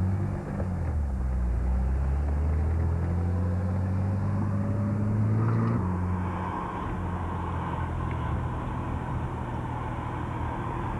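Car engine and road noise heard from inside the cabin. The engine pitch rises steadily for about six seconds, then drops suddenly and holds a steady drone.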